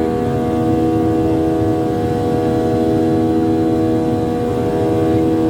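Boeing 737 jet engines heard from inside the passenger cabin during the climb after take-off: a steady drone of several held tones over a continuous rush of noise.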